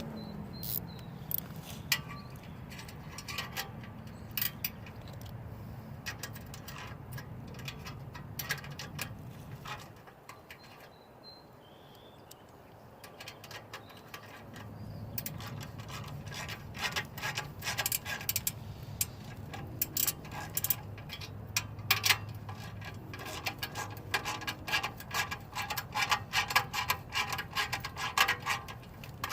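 Hand wrench clicking and metal clinking while tightening the clamp on a slip-on motorcycle muffler, in irregular runs of quick clicks that grow busier in the second half, over a low steady hum that drops out for a few seconds in the middle.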